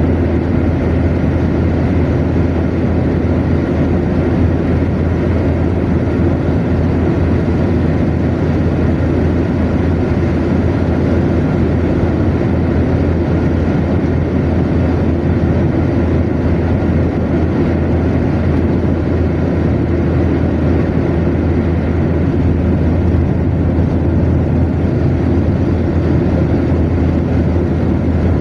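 A car cruising at steady motorway speed: an even, unchanging drone of engine and tyre noise, heaviest in a low rumble.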